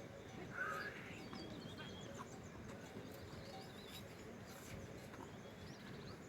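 Faint outdoor rural ambience with small birds chirping, and one short louder call about half a second in.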